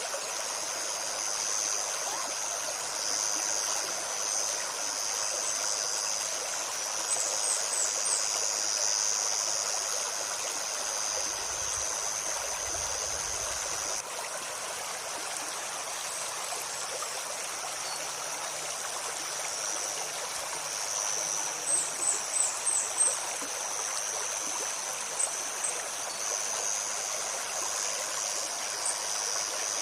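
A shallow river babbling and rushing steadily over stones, with a steady high insect drone above it. Short, high bird chirps come in quick clusters: once about a quarter of the way in, louder just past the middle, and a few near the end.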